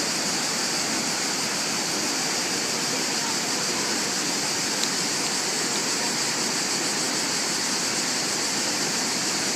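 Steady rush of the Krka waterfalls, water pouring and splashing without a break.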